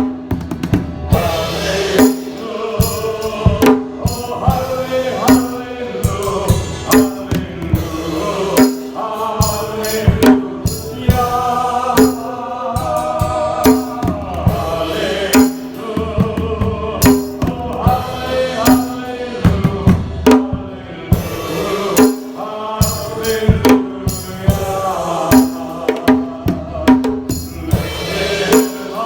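A choir singing over drums and tambourine that keep a steady beat.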